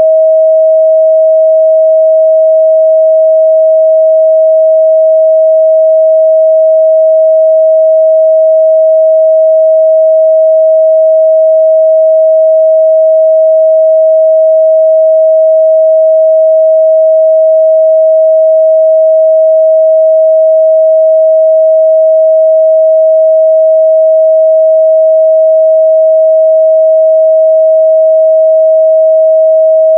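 A steady, loud 637 Hz sine-wave test tone, one pure pitch held without change.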